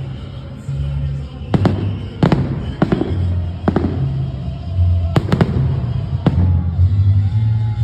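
Fireworks salute: about six sharp bangs in the first two thirds, two of them close together, over music with a low, stepping bass line.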